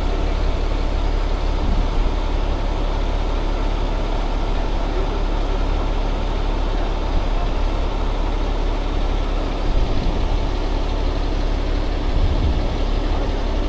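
Heavy rotator tow truck's engine idling steadily, a constant low hum with no change in speed.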